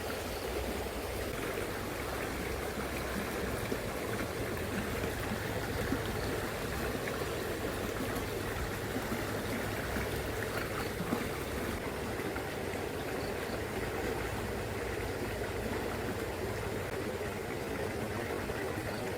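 Shallow, fast-flowing river current running steadily.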